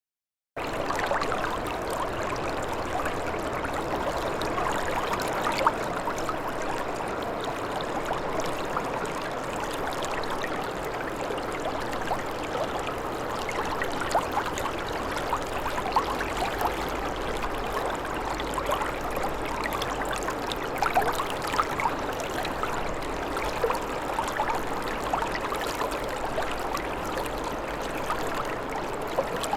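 Running water, a steady rush with many tiny sharp flicks through it, starting suddenly about half a second in.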